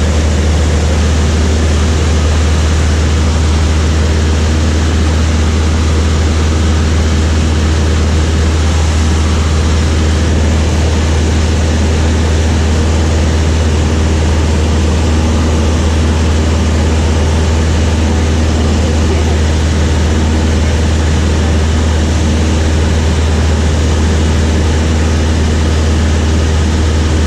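Light propeller aircraft's piston engine and propeller droning steadily in flight, heard from inside the cabin as a loud, deep, unchanging hum.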